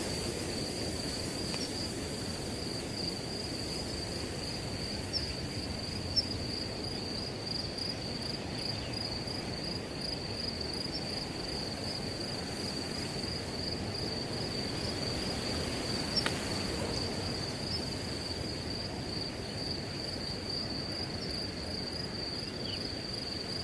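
A chorus of crickets trilling steadily at one high pitch over the low rush of wind through grass. Two brief ticks stand out, about six seconds in and near sixteen seconds.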